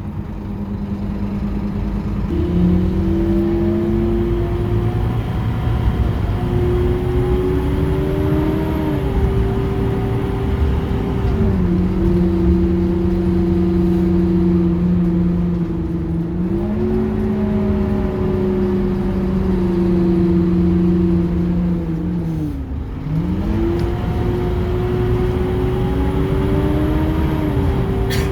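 Scania K230UB city bus under way, its engine and drivetrain giving a steady pitched drone. The pitch drops about a third of the way in, climbs again past halfway, and dips briefly and recovers near the end, as the automatic gearbox shifts and the bus pulls away.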